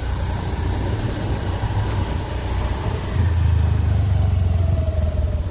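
Steady vehicle engine and road noise, a low rumble that grows heavier about three seconds in. A brief high, thin whistle sounds over it near the end.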